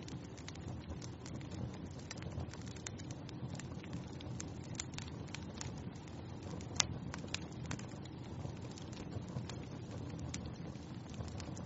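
Wood fire burning in a fireplace: a steady low rush of flames with scattered crackles and small pops, one sharper pop about seven seconds in.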